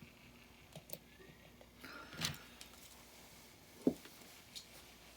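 A few light clicks and taps from small die-cast toy cars being handled, with a louder knock near the end.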